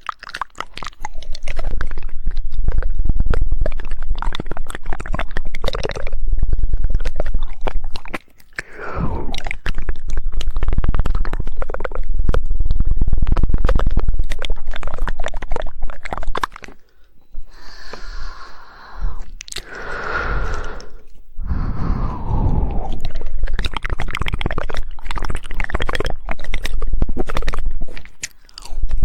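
Close-miked ASMR mouth sounds: rapid 'woodpecker' tongue clicks in dense runs, mixed with wet mouth noises, broken by a few short pauses.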